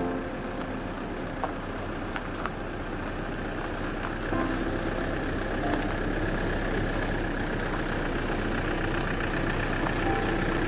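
A steady low engine rumble, like a vehicle idling, with a few faint short tones about four seconds in and again near the end.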